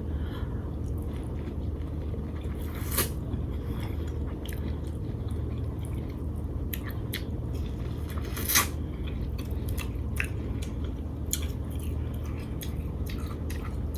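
Close-miked mukbang eating sounds: chewing with wet mouth clicks and smacks scattered throughout, the sharpest about three seconds in and past the middle.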